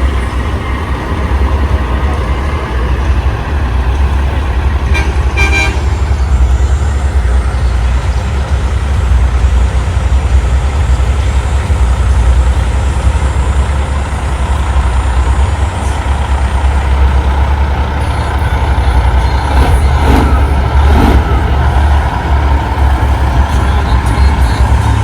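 Diesel engines of big-rig trucks running as a truck convoy rolls by, a loud, steady low rumble, with a few short sharper sounds about five seconds in and again near twenty seconds.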